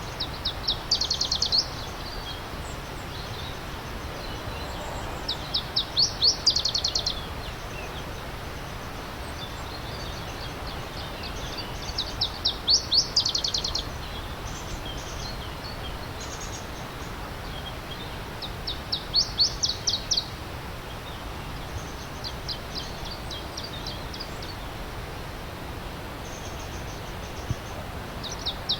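A songbird repeating a short, fast trill of high notes about every six seconds, with fainter high calls in between, over the steady rush of a stream.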